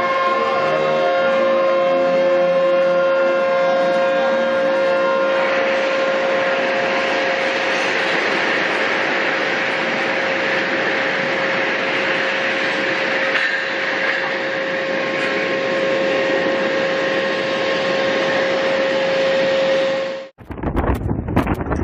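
A long, steady, loud warning tone held on one pitch over a rushing background noise, cut off abruptly near the end. Wind buffeting the microphone follows.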